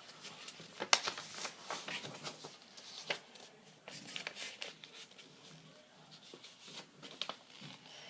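Sheet of paper being handled and creased as paper-airplane wings are folded down: intermittent rustling with sharp crinkles and taps, the loudest about a second in and near three seconds.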